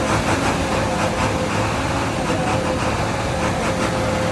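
Freshly rebuilt Nissan diesel engine idling steadily.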